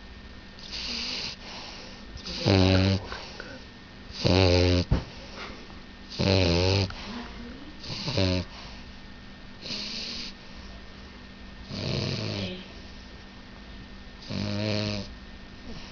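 French bulldog puppy snoring, a raspy pitched snore on each breath about every two seconds, some breaths louder than others.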